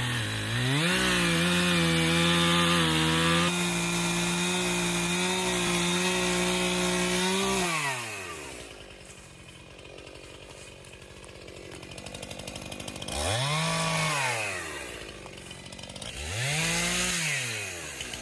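Two-stroke chainsaw revved to full throttle and held there for about seven seconds, then let back down to idle. Two short blips of the throttle follow near the end.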